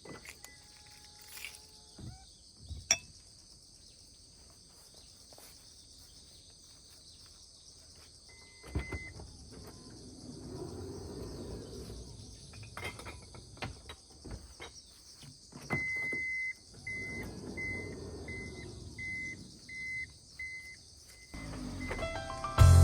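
Steady high-pitched chirring of insects outdoors. Twice a broad rushing noise swells and fades, like a vehicle passing. During the second pass comes a row of short, evenly spaced high beeps, about one every two-thirds of a second.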